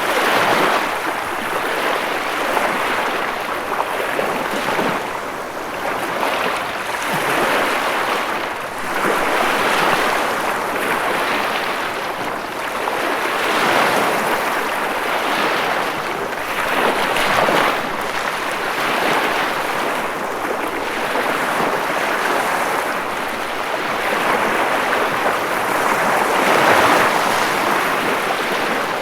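Ocean waves breaking and washing on a shore, a continuous surf that swells and ebbs every two to three seconds.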